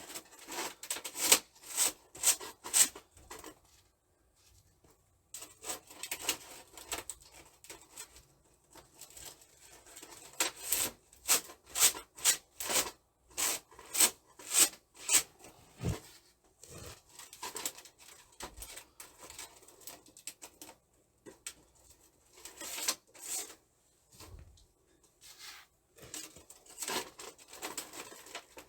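Repeated short scraping or rubbing strokes in irregular bursts, several a second, with pauses of a few seconds between the runs.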